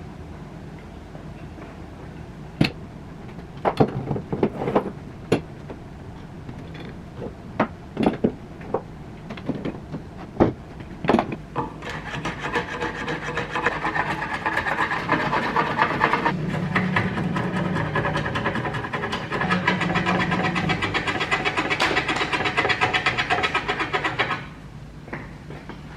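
Wood being worked by hand: a scatter of knocks and taps, then about twelve seconds of rapid, steady scraping strokes on wood, like a rasp or file, which stop suddenly near the end.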